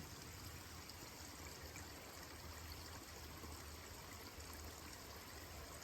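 Faint, steady rushing of a waterfall.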